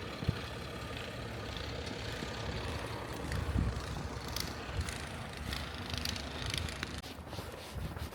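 Truck engines running with a steady low hum.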